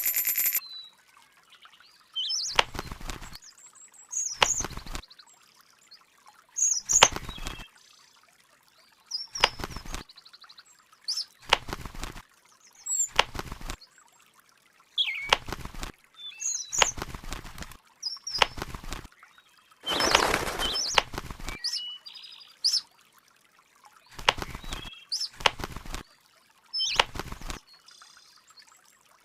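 A bird flapping its wings in short bursts every second or two, with brief high chirps between the flaps.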